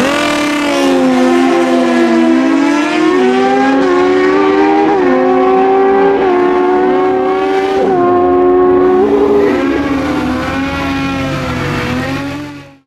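Two naturally aspirated Super Stock drag motorcycles running flat out side by side down the strip. Each engine's pitch climbs and then drops several times as it shifts up through the gears. The sound fades out near the end.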